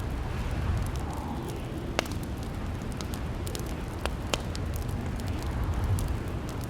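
Wood fire crackling in a fireplace: a steady low rumble of burning with a handful of sharp pops and snaps scattered through it.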